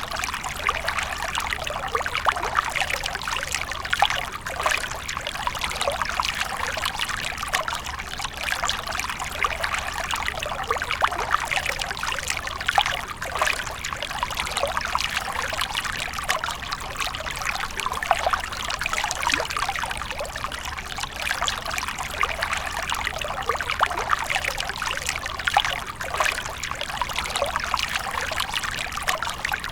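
Water from a fountain splashing and trickling steadily, with a dense patter of small splashes.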